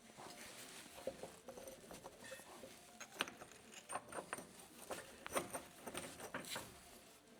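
Irregular small metallic clicks and knocks, with a few light ringing taps, from coilover top-mount parts and a new bearing being handled and fitted.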